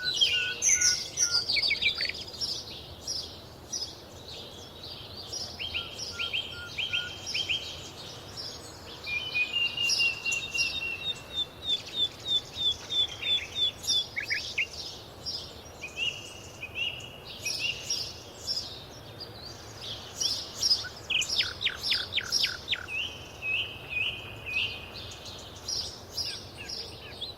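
Several songbirds singing and calling over one another: runs of short whistled notes, fast trills and quick chirps, with one series of sweeping notes a little after twenty seconds.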